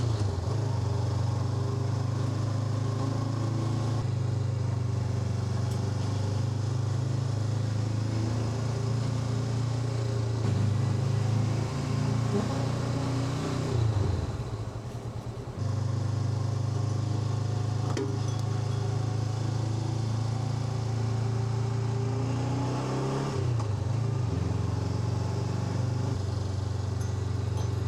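Honda NX500's parallel-twin engine running at steady revs while the motorcycle is ridden, with the engine note dropping away for about a second and a half around the middle before picking up again.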